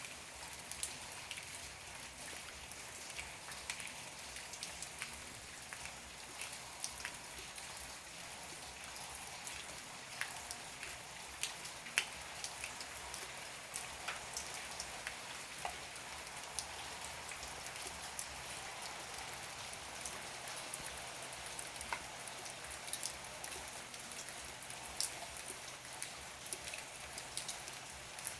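Heavy rain falling steadily, with many sharp drop impacts ticking on nearby surfaces.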